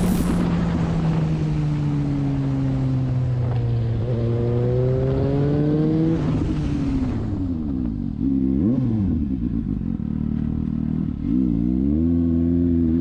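Motorcycle engine running under way, its pitch holding then climbing slowly, then dropping and rising again in several quick swings later on as the throttle opens and closes.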